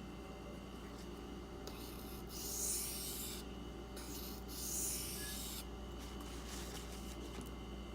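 Steel knife blade drawn across a silicon carbide sharpening stone in two long scraping strokes, each lasting close to two seconds, about two and four seconds in.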